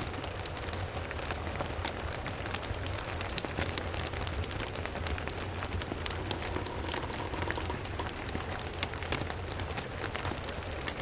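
Steady rain mixed with the crackle of a wood fire, a dense scatter of small sharp pops over an even hiss, above a constant low rumble.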